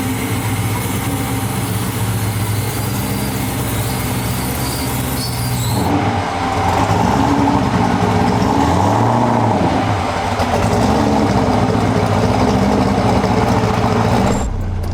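Turbocharged LS V8 of a 2002 Pontiac Trans Am running. It idles steadily at first; about six seconds in, the engine speed starts rising and falling a few times as the car is moved.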